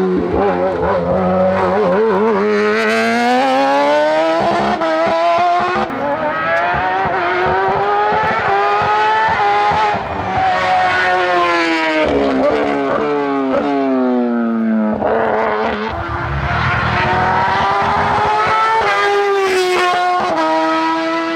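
Hillclimb race car engine running hard at full throttle, its pitch climbing and then dropping sharply at gear changes. In the middle it eases down for a slower stretch before pulling up through the revs again.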